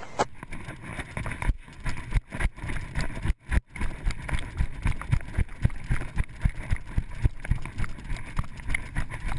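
Footsteps and gear jostling picked up by a GoPro worn by a moving player: irregular low thumps a couple of times a second, with rustle over them.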